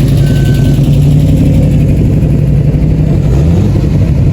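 Car engine running at a steady low drone with road noise, nudging up slightly about three and a half seconds in. A brief faint high tone sounds within the first second.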